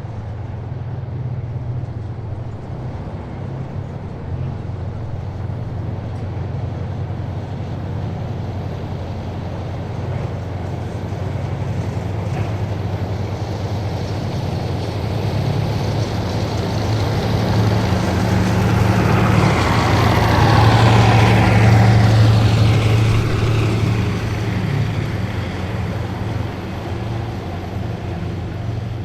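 Heavy military vehicles driving past: a steady low engine drone that builds to its loudest about twenty seconds in as one passes close, with a falling higher whine as it goes by, then eases off.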